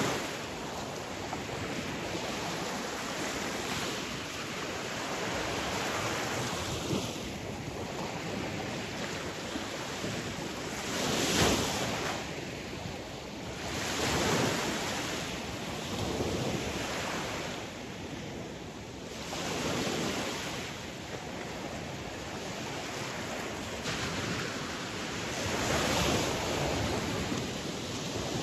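Sea waves surging and washing on the shore as a continuous rushing noise that swells and ebbs every few seconds, the loudest surge about a third of the way in.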